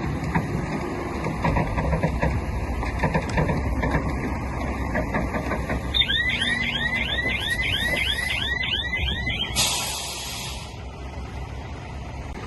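Heavy diesel earthmoving machinery running, with scattered knocks. About halfway through, a high chirping alarm repeats about three times a second for a few seconds, then a short hiss.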